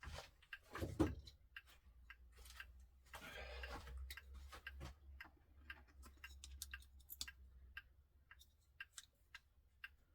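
1970s Seiko time-dater clock ticking, with a knock about a second in and a short rustle of handling around three to four seconds in.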